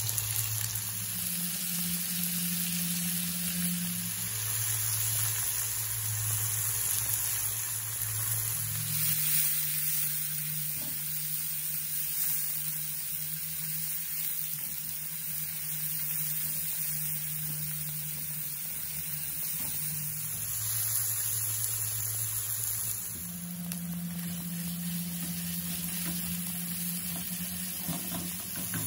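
Chopped onion, garlic and tomato sizzling in oil in a nonstick frying pan, stirred with a spatula and, near the end, pressed with a potato masher. A low steady hum runs underneath.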